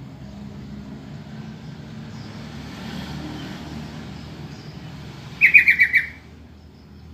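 Yellow-vented bulbul (trucukan) giving a short, fast chattering call of about six quick notes about five and a half seconds in, over a low steady rumble.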